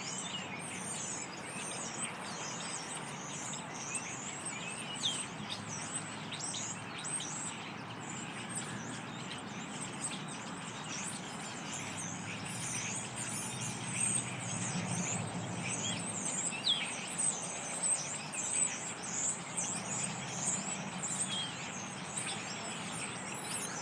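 A large flock of small songbirds calling all at once: a steady chatter of many thin, high-pitched chirps and short sliding notes, overlapping without pause.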